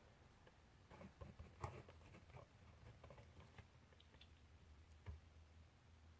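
Faint handwriting on paper: scattered light scratches and taps, loudest about a second and a half in and again near five seconds, over a low steady hum.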